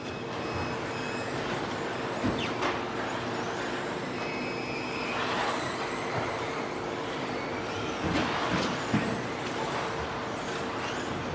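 Several electric 1/10-scale 2WD stadium trucks with 13.5-turn brushless motors racing on a dirt off-road track: high motor whines that rise and fall as they accelerate and brake, over a steady hiss of tyres on dirt, with a few sharp knocks from jump landings and hits.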